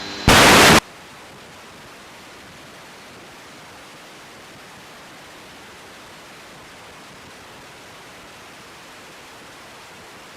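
Air traffic control radio receiver: a brief loud burst of static as a transmission ends, cutting off under a second in, then a steady, even hiss with no signal on the frequency.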